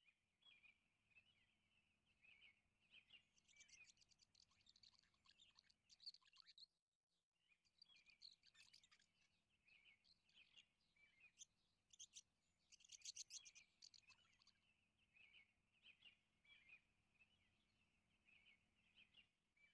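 Very faint birds chirping, short chirps and rapid trills, with a short break about seven seconds in.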